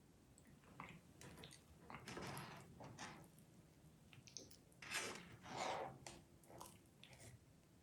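Faint, scattered handling sounds: a series of short soft rustles and light clicks, the two loudest about five seconds in.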